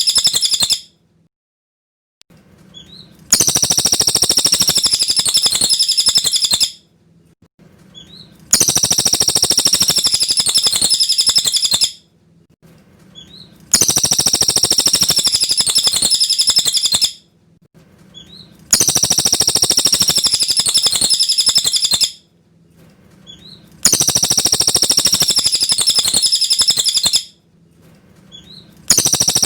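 Cililin bird calling in long, rapid high-pitched chattering phrases of about three and a half seconds each, repeated at a steady pace with short pauses broken by a few faint chirps.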